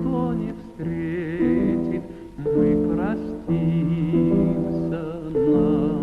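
Romance music: a tenor voice holding long notes with vibrato over an instrumental accompaniment, the closing phrases of the song.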